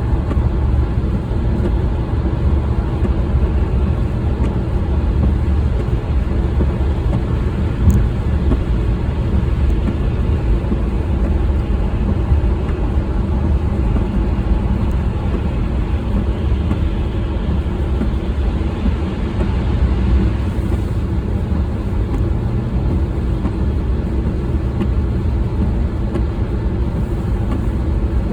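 Steady engine and road noise of a car being driven, a low rumble that holds even throughout, with a single brief click about eight seconds in.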